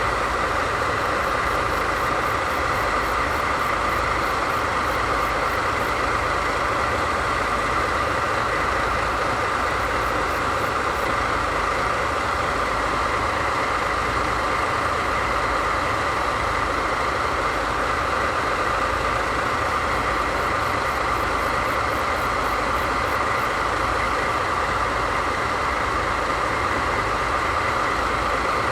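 DD51 diesel-hydraulic locomotive's engines idling steadily, a constant low rumble with an even hum above it.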